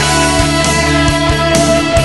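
Melodic rock music: distorted electric guitars and bass over a driving drum beat, with no vocals.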